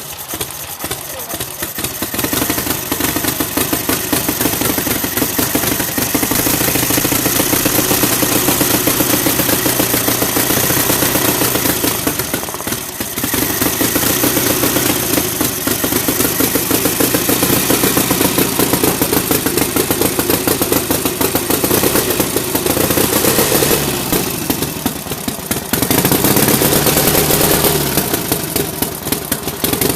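Freshly restored 1946 Harley-Davidson UL 74-cubic-inch flathead V-twin running on an engine run stand just after startup, firing in rapid sharp pulses. The revs drop and pick up again several times.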